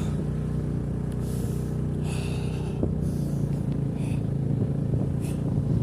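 A motor vehicle engine running steadily, with a low, even hum.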